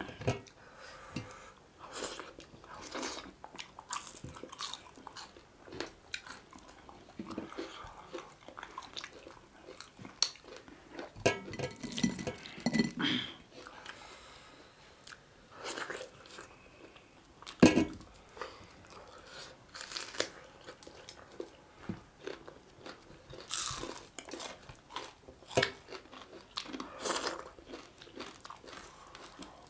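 Chewing and crunching of fried small fish eaten by hand, a run of irregular sharp crackles and clicks with wet mouth sounds between them.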